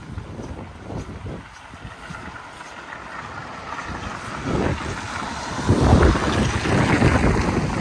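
Wind gusting and buffeting the microphone, lighter at first and then building to strong, rumbling gusts from about halfway.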